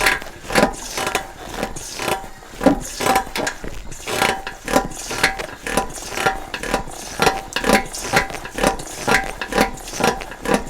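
Royal Enfield front forks being pumped up and down, giving regular knocks with a light metallic ring, about two a second. The shock absorber cover no longer rubs on its sleeve.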